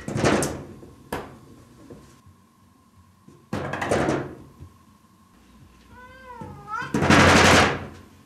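A cat knocking at a door: three bursts of rapid knocking and rattling, the last the loudest, with a single knock about a second in. The cat meows once just before the last burst.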